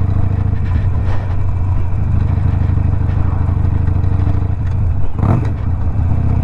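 Harley-Davidson Sportster Iron 1200's air-cooled V-twin running steadily through a Two Brothers 2-into-1 exhaust while the bike is ridden, with a short burst of noise about five seconds in.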